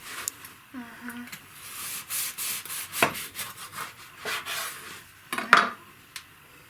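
A knife cutting through a crusty loaf of homemade bread in a few short, scratchy strokes, with a sharp click about five and a half seconds in.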